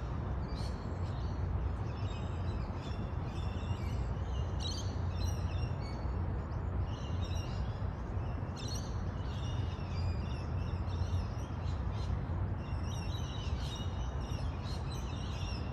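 Small birds chirping and twittering on and off, many short high calls overlapping, over a steady low background rumble.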